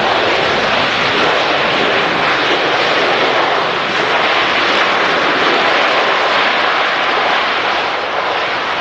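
Large jet airliner passing close by on its landing approach: a loud, steady roar of engine and rushing air noise that eases slightly near the end.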